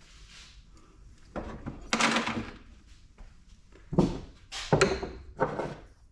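Small brass scrap pieces tossed into a bucket: a handful of separate clanks and thunks, the loudest about two and four seconds in.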